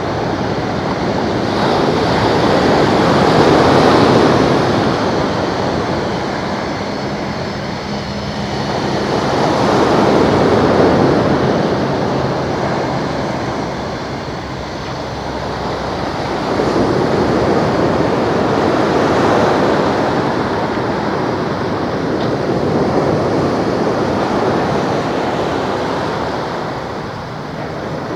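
Sea waves washing ashore, the noise swelling and fading every six seconds or so, with wind buffeting the microphone.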